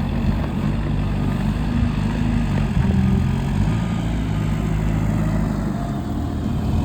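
Ford Transit tipper van's engine running steadily, a low hum whose pitch shifts slightly.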